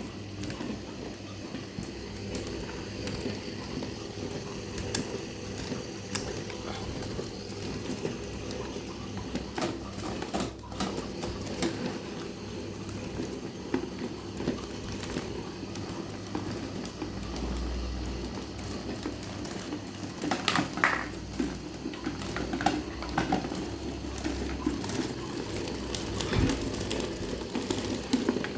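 Electric fan running with homemade improvised blades: a steady motor hum with scattered clicks and rattles, the clicking growing louder and more frequent from about twenty seconds in.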